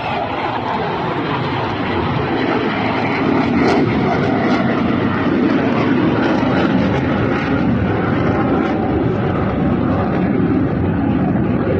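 HAL Tejas fighter jet in flight, its single turbofan engine giving a loud, steady rushing roar that swells a little about three and a half seconds in and then holds.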